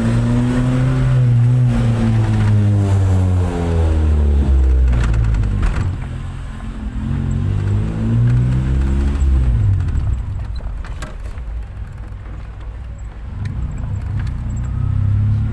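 Car engine with an HKS aftermarket exhaust revving: the pitch rises and falls twice in the first ten seconds, drops to a lower, quieter running, then climbs again near the end.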